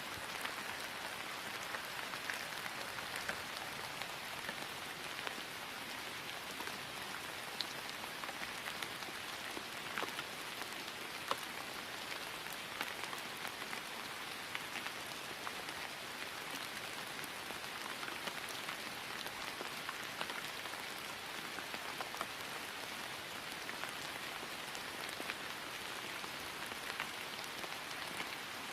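Steady rain falling on grass, an even hiss dotted with the ticks of single drops.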